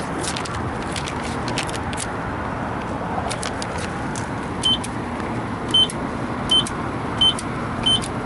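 Car idling with scattered sharp clicks, then, from about halfway, a short high electronic beep repeating about every 0.7 seconds, five times. The beeps come from a car wash pay station.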